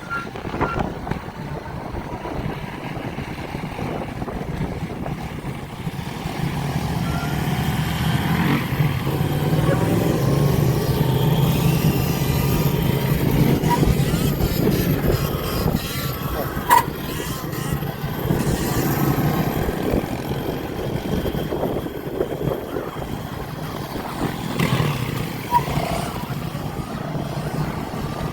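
Motorcycle and dirt-bike engines running and revving in a group, growing louder from about six seconds in and easing off after about twenty, with a sharp click near seventeen seconds.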